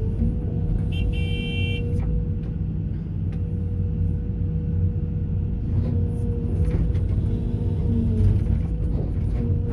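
Heavy diesel equipment engine running steadily, with a short horn toot lasting under a second about a second in.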